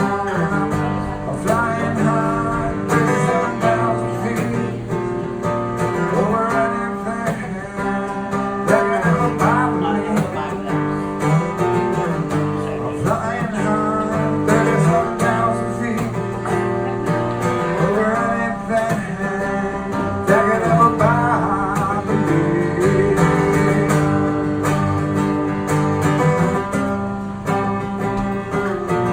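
Acoustic guitar strummed and picked in an instrumental break of a live country-style song, running steadily with melodic notes that bend in pitch over the chords.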